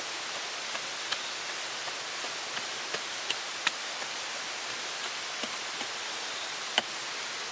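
Steady rain falling on rainforest foliage, an even hiss with a handful of louder single drops tapping here and there.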